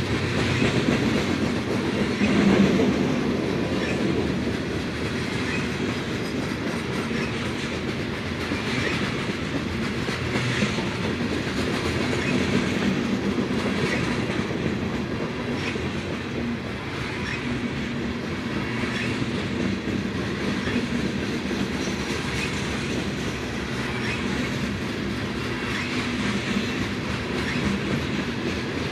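Loaded freight train of gondola cars rolling past steadily, the wheels clacking over rail joints in a repeating rhythm about every two seconds.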